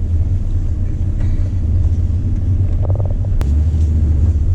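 Two-door Jeep Wrangler driving on a snowy road in two-wheel drive, a steady low rumble of engine and tyres, with one sharp click about three and a half seconds in.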